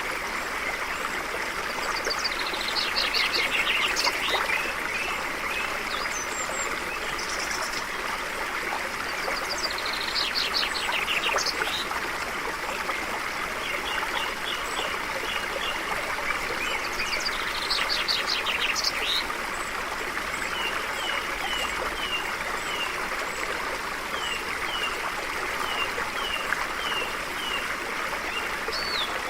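A stream running steadily, with birds singing over it: three bursts of rapid trilling notes, and runs of short, evenly repeated chirps, about one a second, in the second half.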